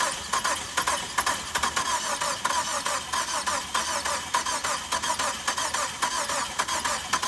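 2005 Chrysler PT Cruiser turbo's four-cylinder engine being cranked over on the starter, a steady run of rapid, even pulses, several a second, without catching: the engine will not start.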